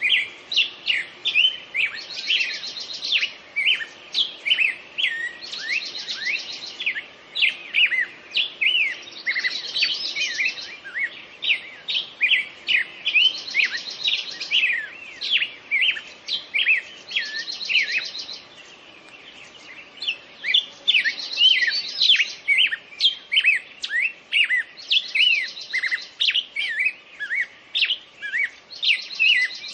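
Several songbirds singing together: many quick chirps and sweeping whistled notes, with one bird repeating a buzzy trill of about a second every two to three seconds. The song thins out briefly a little past the middle.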